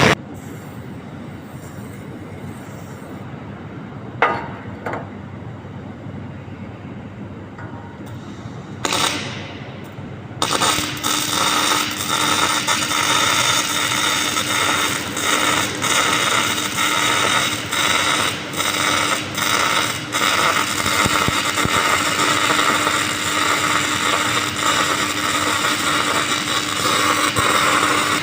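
Electric arc welding, the arc crackling and sizzling densely and irregularly over a steady low hum. It starts about a third of the way in, after a single click and a brief hiss.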